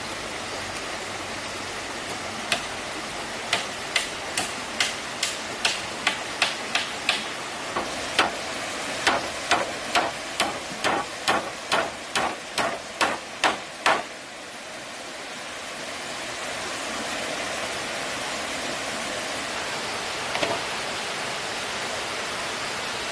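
Steady rush of flowing stream water with a run of sharp tool strikes, two to three a second, that starts a few seconds in and stops abruptly about two-thirds of the way through.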